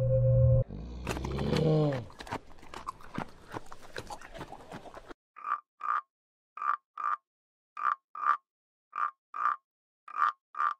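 Whale calls: a held low moan, then a falling groan and a run of clicks, cut off sharply about five seconds in. Then a frog croaking in pairs of short calls, five pairs about a second apart.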